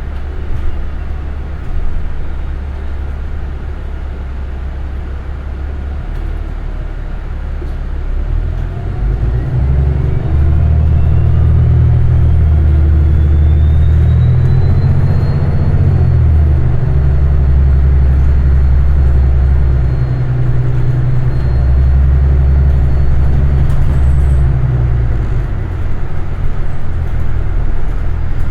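City transit bus heard from inside the cabin, its engine and drivetrain running as it drives. About eight to ten seconds in, the low rumble grows louder as the bus speeds up. A thin whine rises in pitch through the first half, then holds steady.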